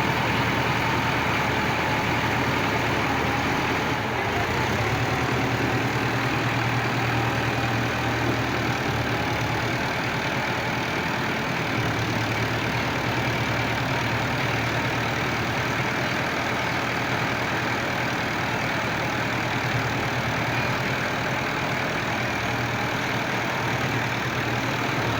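Tractor engines running steadily with a deep, even beat.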